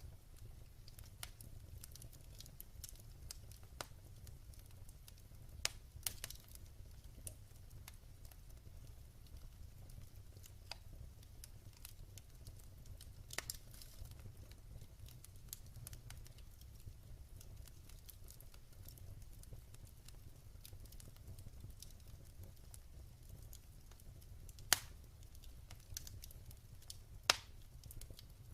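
Wood fire crackling in a fireplace: scattered sharp pops and ticks over a steady low rumble, with two louder pops near the end.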